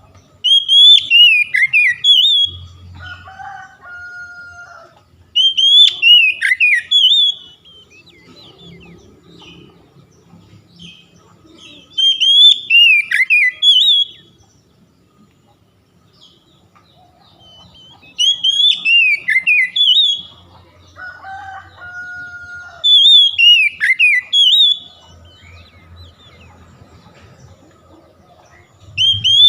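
Oriental magpie-robin (kacer) song: a loud phrase of quick, high whistled notes sliding down and up. The phrase repeats about every five to six seconds.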